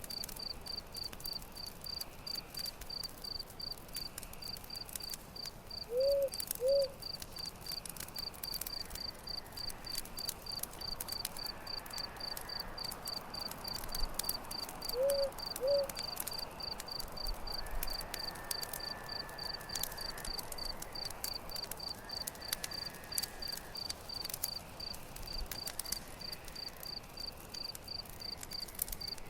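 Crackling campfire with a cricket chirping steadily and evenly behind it. Twice, a pair of short low calls.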